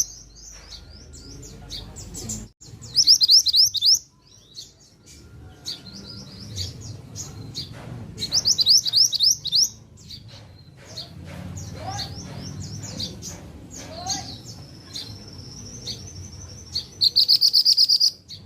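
Mantenan songbird singing in loud bursts of about a second, each a fast run of high chirping notes, several seconds apart, with softer scattered notes in between. A faint low hum runs underneath.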